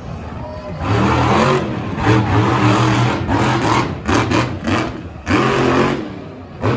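Monster truck engine revving in repeated throttle bursts, its pitch climbing and dropping, with a few sharp cracks about four seconds in.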